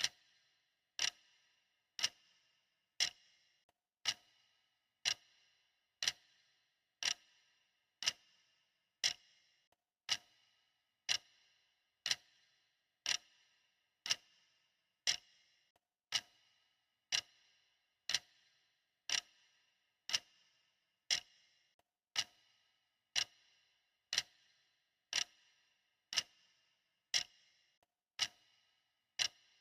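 Clock ticking: sharp, even ticks repeating at a steady, regular pace.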